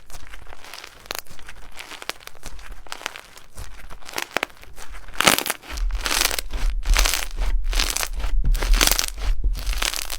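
Hands squeezing and working slime, giving irregular crackling, crinkling pops that grow louder and denser about halfway through.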